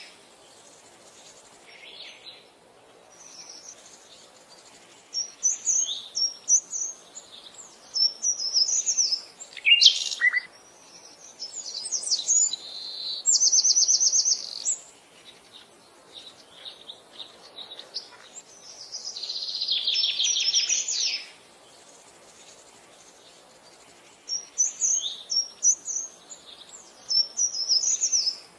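Wild birds singing in separate short phrases with pauses between them: quick high chirps, a fast trill and a longer rattling phrase.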